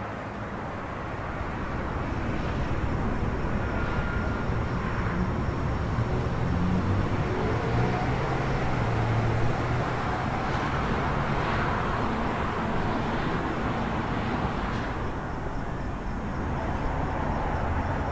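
Urban night ambience: a steady hum of distant traffic, with a low vehicle engine passing through the middle.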